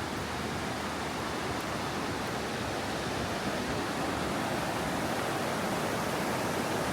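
Steady rushing of the East Branch of the Pemigewasset River, slowly growing louder.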